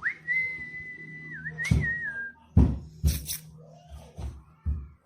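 A long, clear whistled note that glides up at the start, holds steady with a couple of small dips and a wobble, and stops a little over two seconds in. Several short dull thumps and a brief hiss follow.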